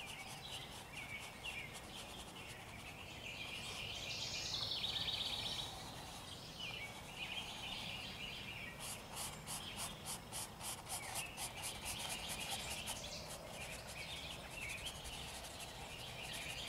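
Birds chirping and singing, with a brief buzzy trill about four seconds in and a rapid high pulsing, several pulses a second, from about nine to thirteen seconds in.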